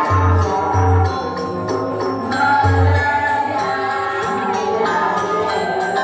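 Balinese janger music: a gamelan ensemble with sustained metallophone notes, jangling cymbal strokes and recurring deep low beats, with group singing.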